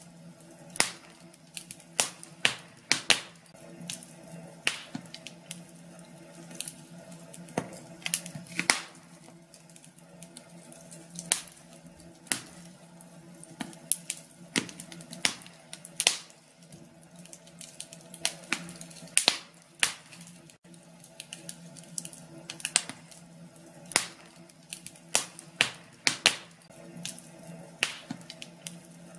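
Wood fire crackling in a fireplace: irregular sharp snaps and pops, sometimes in quick clusters, over a faint steady low hum.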